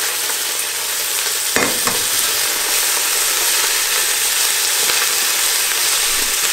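Parboiled green beans sizzling steadily in hot olive oil and garlic in a frying pan as they are stirred with a wooden spatula, with two short knocks about one and a half seconds in.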